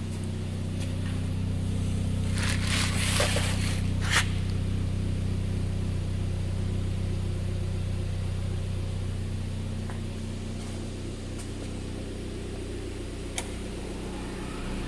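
2012 Chevy Cruze 1.8L inline-four engine idling with a steady hum. A brief scraping rustle comes a few seconds in, followed by a sharp click, and another click comes near the end.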